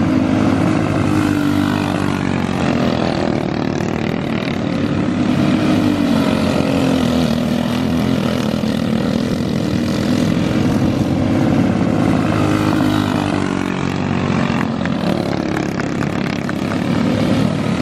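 Outlaw kart engine running hard through a dirt-track race, its pitch rising and falling as the throttle comes on and off through the turns.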